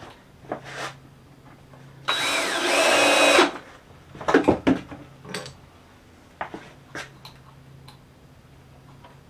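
Power drill driving a 2-inch wood screw: the motor spins up about two seconds in and runs for about a second and a half, its pitch rising then settling under load. A few short wooden knocks follow as the pieces are handled.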